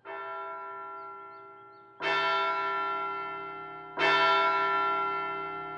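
A large bell tolling: three slow strikes about two seconds apart, each ringing on and fading away. The first strike is softer than the next two.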